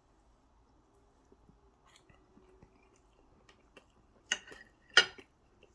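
A person chewing a bite of chicken with melted cheese, with faint wet mouth clicks and two sharp, louder clicks about four and five seconds in.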